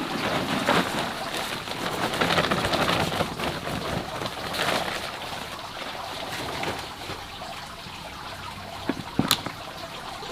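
Water sloshing and trickling, with many small crackles and a sharp click about nine seconds in. The sound is louder in the first half and eases off.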